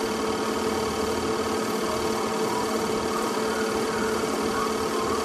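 Steady mechanical hum with hiss and a constant pitched tone, unchanging, like a small motor running.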